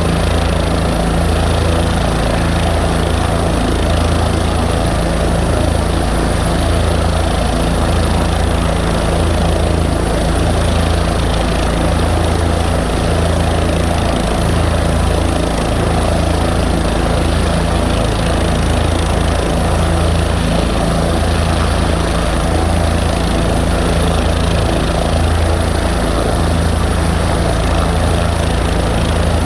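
Aircraft engine running steadily at idle on the ground before takeoff, a constant low drone with an even low pulsing.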